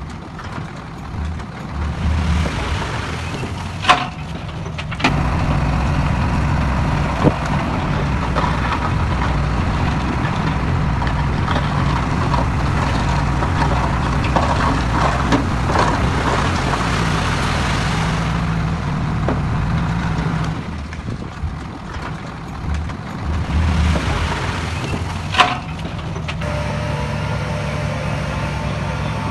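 Heavy diesel earthmoving machinery working, its engine running steadily with a louder, heavier stretch through the middle, and a few sharp metal clanks.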